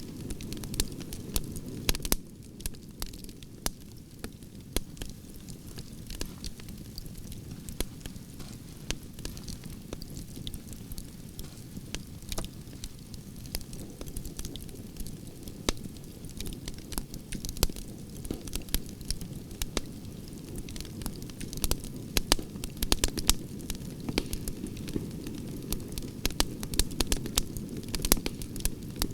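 Wood fire of burning branches crackling, with frequent sharp pops over a steady low rumble of the flames; the pops come thicker near the end.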